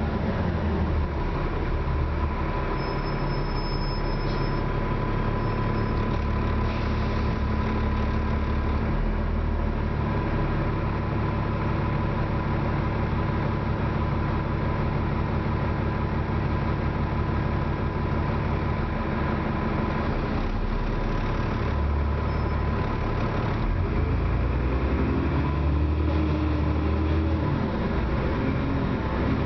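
Dennis Trident double-decker bus's diesel engine running on the move, heard from inside the bus, its note changing several times as it changes gear and rising near the end as it pulls away. A steady high whine runs through the first third.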